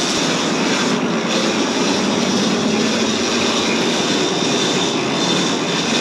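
Steady drone of a yacht's engines under way, with an even rushing hiss over it.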